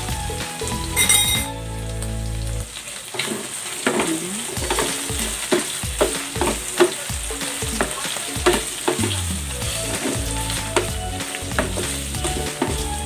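Chicken pieces sizzling in melting butter in a nonstick frying pan, stirred with a wooden spatula that scrapes and knocks against the pan again and again.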